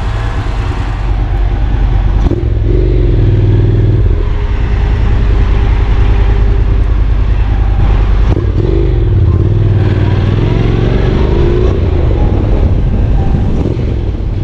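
Motorcycle running on the road, engine pitch rising and falling a few times with the throttle, over a heavy steady rush of wind noise.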